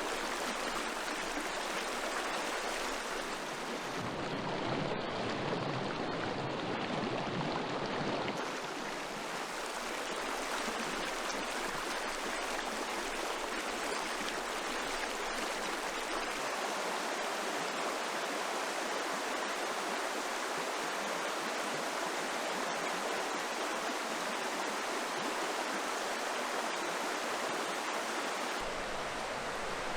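Flowing river water rushing steadily over stones; the character of the rush changes briefly from about four to eight seconds in and again near the end.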